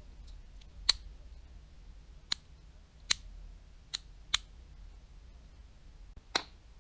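Six short, sharp clicks at uneven intervals as small metal parts of a baitcasting reel and the tools working on it are handled and set down.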